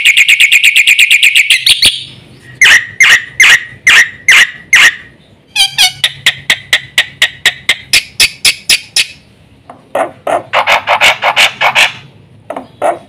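Black-winged myna (jalak putih) singing loudly: a fast rattling run of notes, then sharp single notes about twice a second, then quicker trilled series in several phrases.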